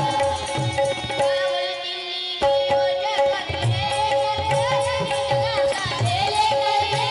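Marathi bhajan music: harmonium holding steady notes over a tabla beat, with a voice singing. The drum drops out for about a second, a little over a second in, then comes back.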